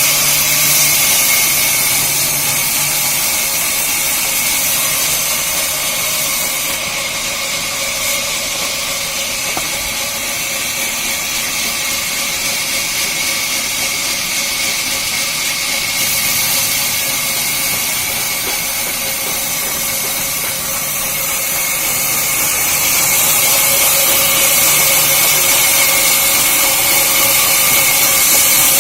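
Sawmill saw machine running steadily: a constant loud hiss with a steady high whine, growing a little louder about two thirds of the way through.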